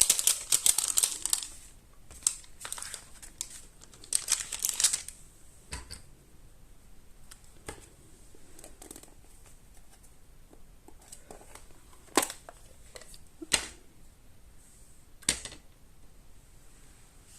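Paper and cardstock pieces being handled and shuffled at a craft table, rustling and crinkling for the first few seconds, then a quieter stretch with a few sharp taps and clicks.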